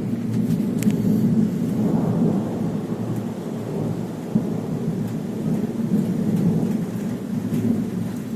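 Thunder rumbling on and on over steady rain during a heavy thunderstorm, with a few sharp clicks of raindrops about a second in.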